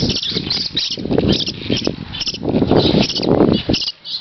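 Birds calling in short repeated chirps, two or three a second, the scolding of birds agitated by a dog. Louder low rustling comes about half a second in and again from about two and a half to nearly four seconds in.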